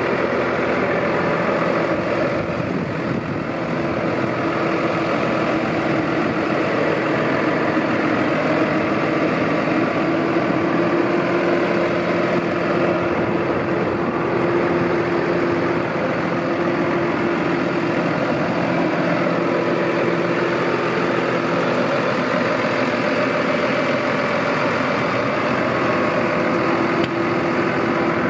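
New Holland T6.180 tractor's diesel engine idling steadily, with a constant droning tone.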